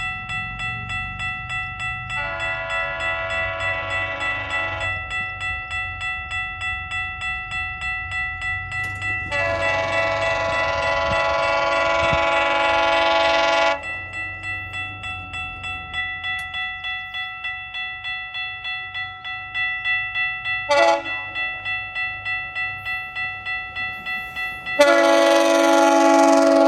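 GO Transit bi-level cab car's horn sounding the crossing signal: long, long, short, long, the last blast still going at the end. A level-crossing bell rings steadily underneath at about two strokes a second.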